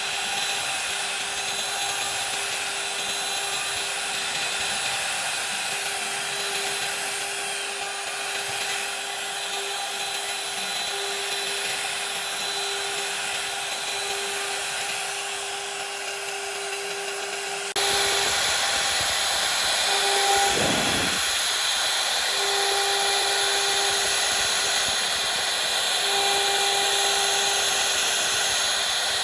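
CNC router spindle running as it cuts wood: a steady machine whine over cutting noise. The steady tone drops in and out. The sound gets abruptly louder about 18 seconds in.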